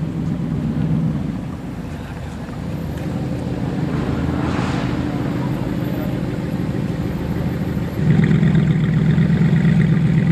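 Car engines and exhausts running at low revs, with a sudden, louder exhaust note from about eight seconds in.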